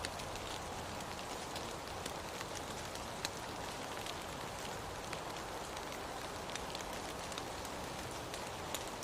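Steady rain: an even hiss with scattered sharp ticks of single drops landing close by.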